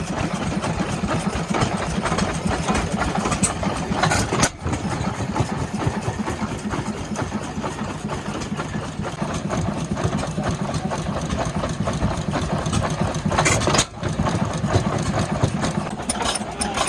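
Antique stationary gasoline engines running steadily with a rapid, even firing beat, briefly cut off twice where the sound changes from one engine shot to the next.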